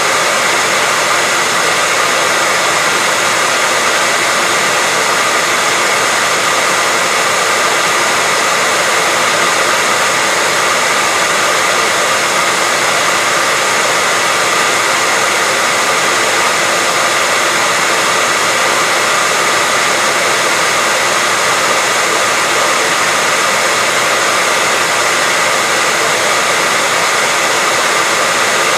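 Hair dryer running continuously: a steady, unchanging airy whoosh with a faint whine in it.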